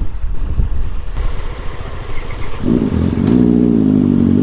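Motorcycle engine rumbling at low revs, then revved up about two-thirds of the way in, the pitch rising and held high. It is a loud, ear-splitting exhaust.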